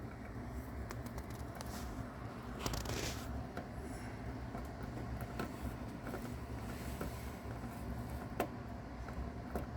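Small scattered crackles and clicks, with a brief rustle about three seconds in: a mouse chewing and tearing at a cicada's hard body. A steady low hum runs underneath.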